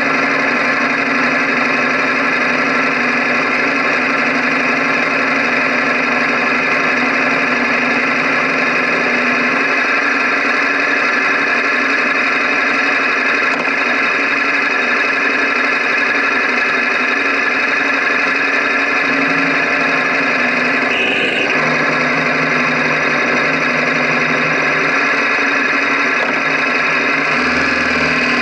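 KTM 1050 Adventure's V-twin engine idling steadily, heard close up beside the engine.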